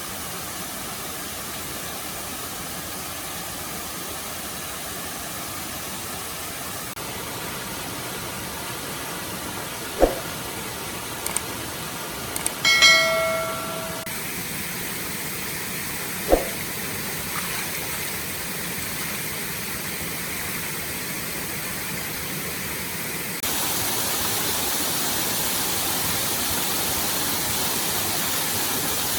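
Steady rushing of a forest stream, with two sharp knocks about ten and sixteen seconds in and a short ringing clink between them. The water rush gets louder about two-thirds of the way through.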